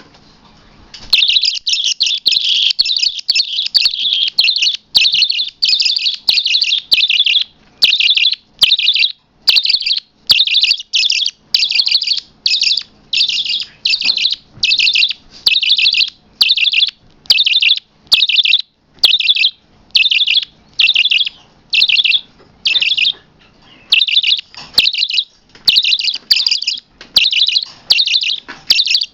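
A small pet parrot calling over and over: loud, shrill chirps of about half a second each, roughly two a second, starting about a second in, with one short pause.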